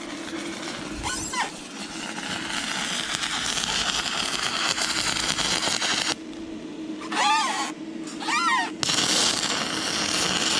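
Arc of a stick welder burning a 6011 rod at about 74 amps on thin, rusty, painted metal: a steady crackling hiss. It breaks off about six seconds in and is struck again a couple of seconds later. Two short high chirps sound in the pause.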